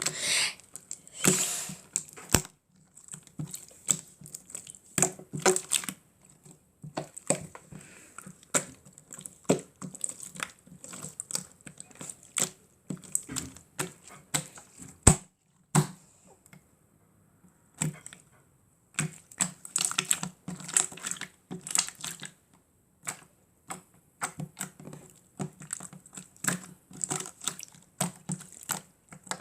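Slime being pressed and worked by hand, making rapid irregular clicks and pops, with a short pause about two-thirds of the way through.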